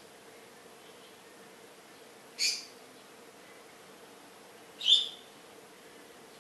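Short bird-like chirps, one every two and a half seconds or so, the second one higher and louder, over a faint steady hum.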